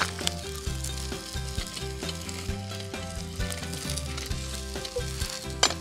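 Burger patty sizzling as it fries in a carbon steel pan, with one sharp click near the end.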